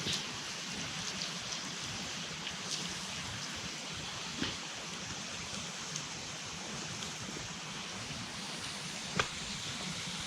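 Water poured onto a smouldering campfire, the hot embers hissing steadily as they turn to steam, with a few sharp pops, the loudest about nine seconds in.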